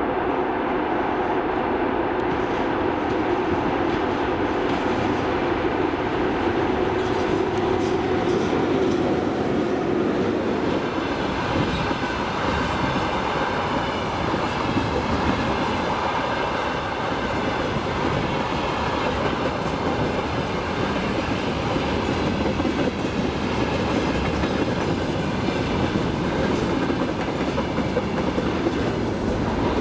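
Freight train hauled by a VL80S electric locomotive rolling past: a steady hum for about the first ten seconds, then the continuous rumble and clickety-clack of the freight wagons' wheels on the rails.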